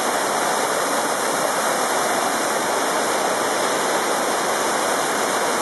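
Waterfall in heavy spring flow, a steady, loud rush of falling water heard close up.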